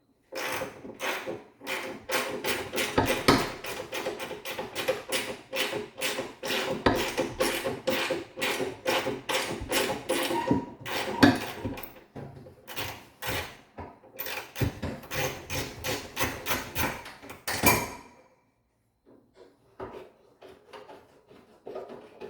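Hand ratchet clicking rapidly as 10 mm fender bolts are backed out, in long runs with short pauses, then a few faint knocks as it stops.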